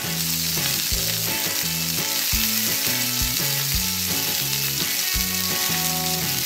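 Frying-sizzle sound effect, a steady hiss that starts suddenly, standing in for the Play-Doh dumpling frying in the toy pan. Bouncy background music with a regular beat plays under it.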